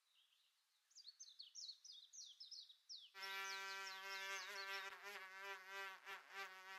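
Birds chirping a rapid run of high notes that fall in pitch. About three seconds in, a steady buzz like a flying insect starts suddenly under the chirps and cuts off abruptly near the end.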